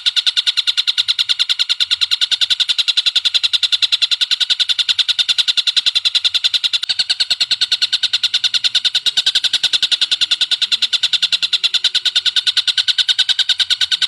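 Bird calling in a long unbroken run of sharp, rapidly repeated high notes, many a second, from a recording played for bird training.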